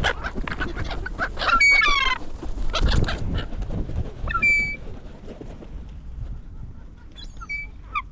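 Seagulls squawking in a feeding frenzy: a run of harsh calls about a second and a half in, another call around four and a half seconds, and one more near the end, over scattered scuffling clicks and a couple of low thumps.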